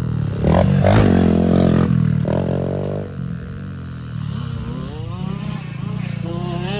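Small pit bike engine being ridden on a dirt track: loud under throttle for the first three seconds, then easing off and revving up twice.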